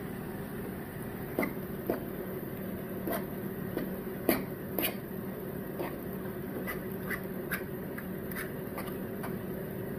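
Ground turkey and onions sizzling steadily in a pot, with a dozen or so short clicks and knocks of a utensil against the pan as the meat is stirred. The loudest knock comes a little past the middle.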